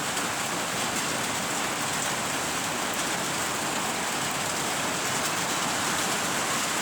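Steady rain falling: an even hiss with faint ticks of individual drops.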